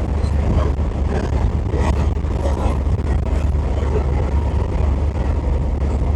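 Steady low rumble of engine and road noise heard from inside a camper driving along the highway.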